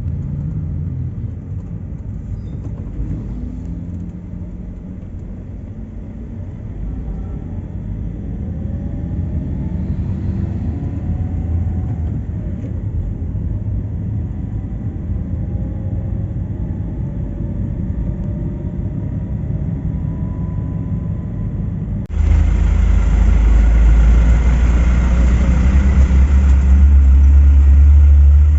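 Heavy truck engines and road traffic rumbling, with faint rising and falling engine tones. About three-quarters of the way through, an abrupt cut brings a louder, closer, deep engine rumble.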